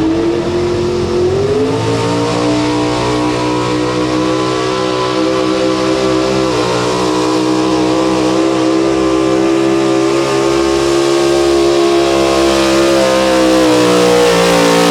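Pulling pickup truck's engine running hard at high revs under full load while it drags the weight sled down the track. The revs climb over the first two seconds, then hold steady with a slight sag and recovery near the end.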